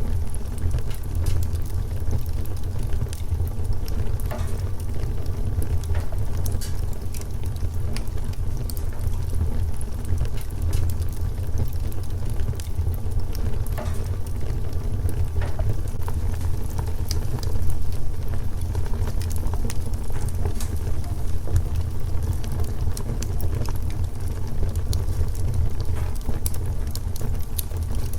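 Wood fire crackling, with scattered small pops and snaps over a steady low rumble.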